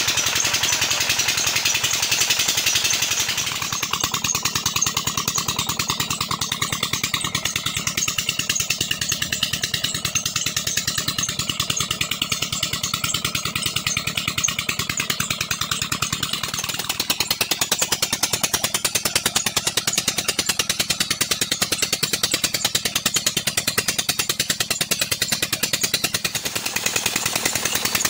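Old 20 hp Petter diesel engine running steadily with an even, rapid beat of firing strokes.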